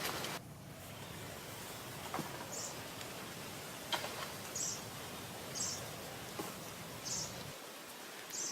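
A small bird chirps over and over, short high notes about once every second or so, over a steady background hiss, with a few faint clicks.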